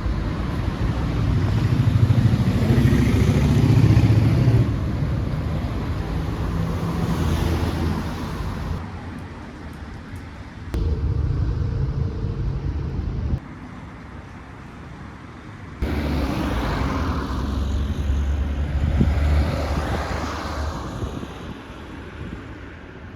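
Street traffic noise: cars and other vehicles passing with a low rumble, in several short clips joined by abrupt cuts.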